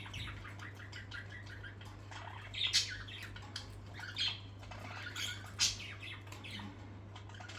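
Pet parrots chattering continuously, with short, sharp squawks breaking through several times.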